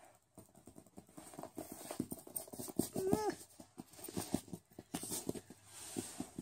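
Quick, irregular tapping and pattering on carpet as fingers drum and a budgie scurries and pecks after them in a chase game. A short pitched call that slides up and then down comes about three seconds in.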